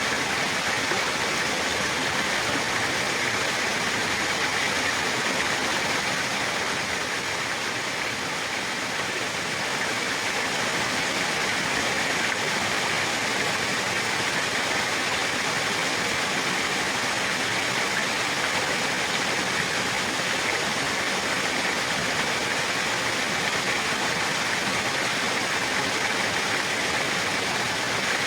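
Running water rushing steadily in an even, unbroken hiss.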